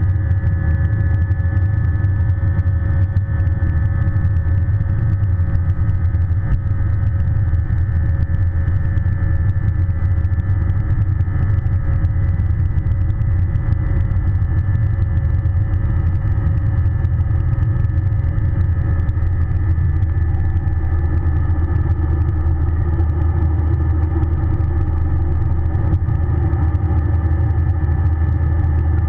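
Airbus A320 jet engines and cabin noise heard from inside the airliner: a steady, loud low rumble with several even whining tones held at one pitch.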